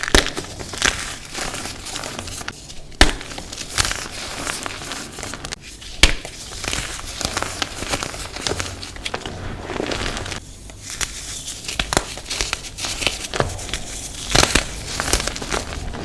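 Blocks of gym chalk being crushed and crumbled, a dense crunchy crackling with a few sharp snaps, the loudest about 3 and 6 seconds in.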